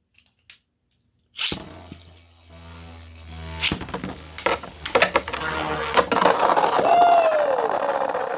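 3D-printed Beyblade spinning tops launched into a stadium, whirring and scraping as they spin, with several sharp clashes between them. The whirring grows loud and steady in the second half.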